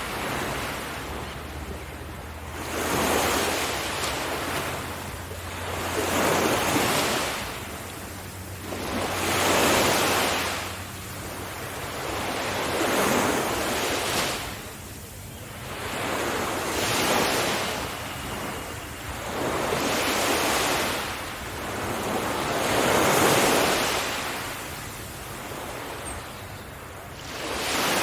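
Ocean waves breaking on a beach, the surf swelling and falling back about every three to four seconds.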